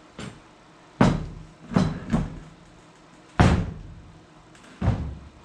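A series of about six sharp knocks and thuds at irregular intervals, the loudest about a second in and midway through, each dying away quickly.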